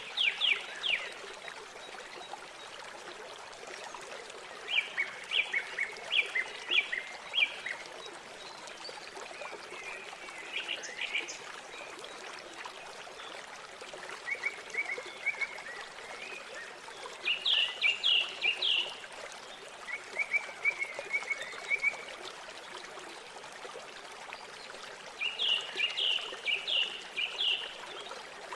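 Songbirds singing short, quick phrases of repeated notes every few seconds over the steady rush of flowing river water.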